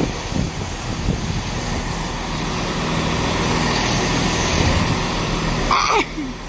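Diesel train engines idling with a steady hum at the platform. A short voice is heard near the end.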